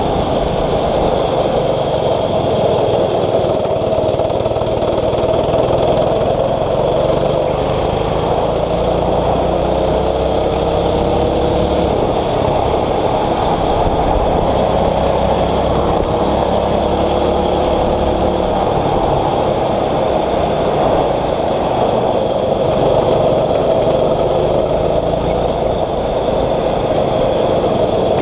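Small single-cylinder 6.5 hp four-stroke kart engine, heard onboard, running hard. Its pitch climbs and falls back again and again as the kart accelerates down the straights and slows for corners.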